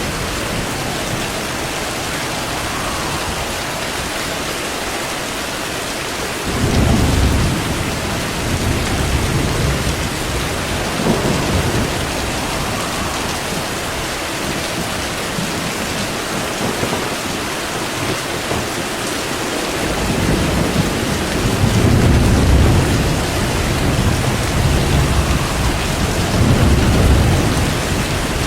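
Steady rain falling, with low rolling thunder: a rumble about six seconds in, a short one near eleven seconds, and several longer rumbles through the last third.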